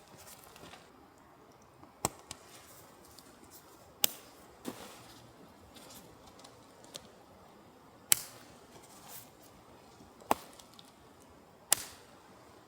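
Firewood being worked for the stove: about six sharp, separate cracks and knocks, spaced irregularly a second or more apart.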